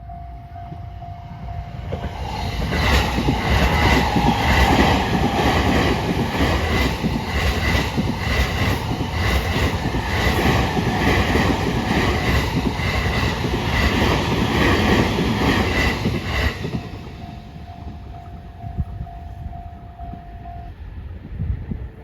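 JR East E217 series electric train passing over a level crossing. For about fourteen seconds it makes a loud, rhythmic clatter of wheels over the rail joints. The crossing's warning alarm rings as a steady tone before and after the train, and stops about a second before the end.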